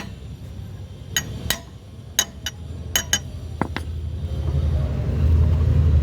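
Sharp metallic clinks, about seven spread over the first four seconds, over a low rumble that grows louder about five seconds in.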